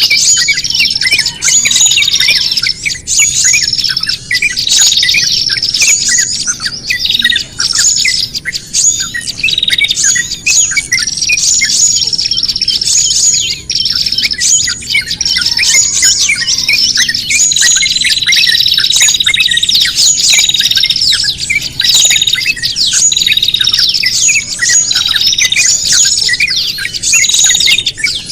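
A bird-lure recording of many small songbirds calling agitatedly all at once: a dense, unbroken mix of high chirps, squawks and rapid trills, with a long buzzy trill about two-thirds of the way through. It is the distress-style chatter of birds in trouble, played to draw small birds in.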